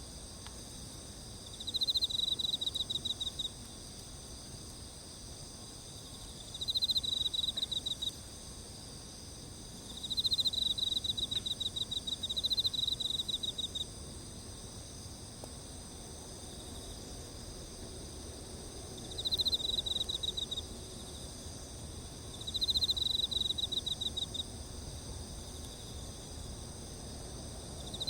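Insects chirping: a steady high-pitched chorus, over which a louder pulsed trill comes in short bouts of a second or two, about seven times.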